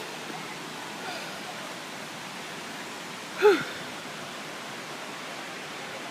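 Steady rushing of the Pistyll Rhaeadr waterfall. About three and a half seconds in, a single short pitched voice-like call cuts through, briefly louder than the water.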